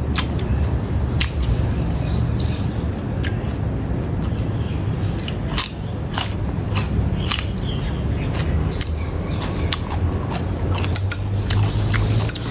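Crisp crunching and chewing as raw cucumber is bitten off and eaten: many short sharp crunches, thickest in the second half, over a steady low background rumble.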